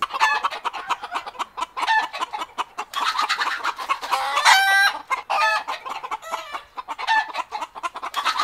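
A flock of chickens clucking and calling in many short notes, with one louder, longer call about halfway through.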